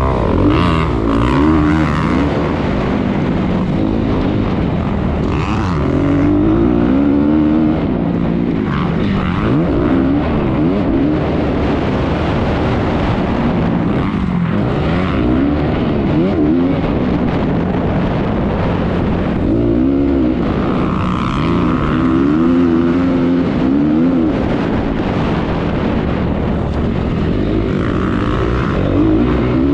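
Honda 250R motocross bike's engine racing around the track, its pitch repeatedly climbing under throttle and dropping on shifts and braking, over a steady low rumble.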